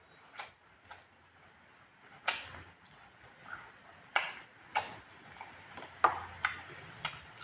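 Eating sounds: a string of sharp, irregular clicks and smacks, about eight in seven seconds, from someone eating spicy fried pork.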